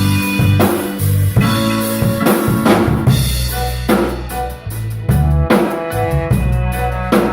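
Live band playing instrumental music, with the drum kit prominent: snare and bass drum hits over low bass notes and held chords.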